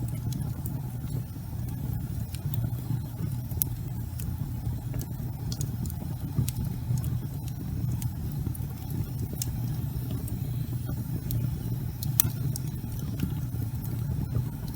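Wood fire burning in a fireplace: a steady low rumble with irregular sharp crackles and pops from the logs, a louder pop about twelve seconds in.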